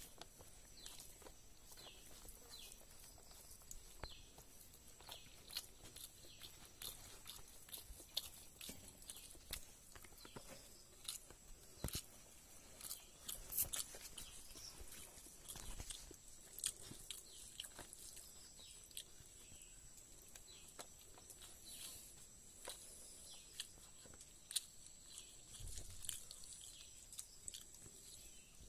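Eating rice and curry by hand: faint chewing and small mouth clicks, with fingers working the rice on a banana leaf, many short irregular ticks throughout. A faint steady high tone runs underneath.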